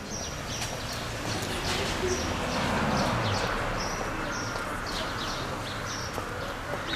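Small birds chirping over and over in short high calls, against steady street background noise. A low rumble swells and falls away in pitch around the middle.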